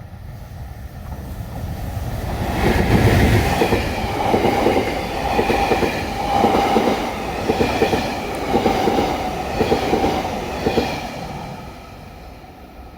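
A train passing close by. It builds up and then fades away, its wheels clacking over rail joints in regular groups about once a second, over a steady whine.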